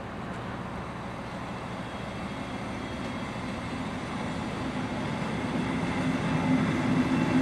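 MÁV Intercity passenger coaches rolling slowly past on the adjacent track, a steady rumble of wheels on rail that grows gradually louder.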